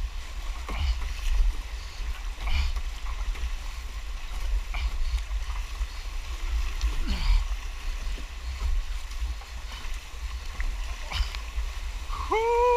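Kayak paddling through fast-moving floodwater: rushing water and scattered paddle splashes over a steady low rumble. A person shouts a rising-and-falling "whoo" near the end.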